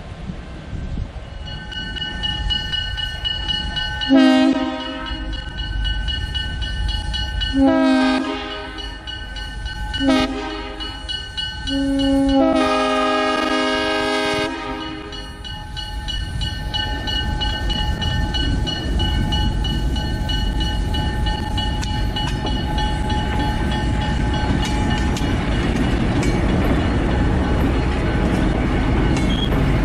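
Air horn on a 1950s Alco FPA diesel locomotive blowing the grade-crossing signal: long, long, short, then a drawn-out final blast. After the horn, the rumble of the locomotives and train rolling past grows steadily louder.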